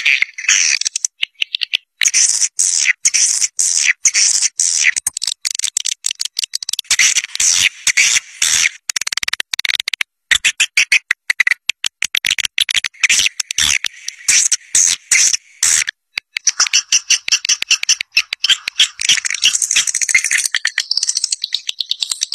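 Swiftlet caller recording, the edible-nest swiftlet twitter played to lure flocks to a nest house: a dense, rapid stream of high chattering chirps, broken by a few short gaps.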